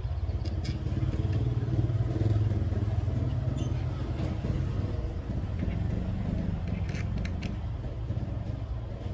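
Small two-stroke engine of a cultivator running steadily, a little louder about two seconds in.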